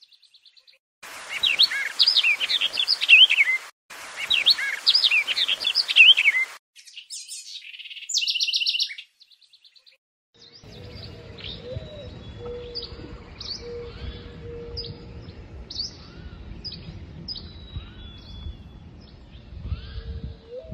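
Songbird singing two bursts of fast, varied warbling trills, then a short buzzy rattling note. After a pause, other birds chirp in short falling notes about once a second over a low wind rumble.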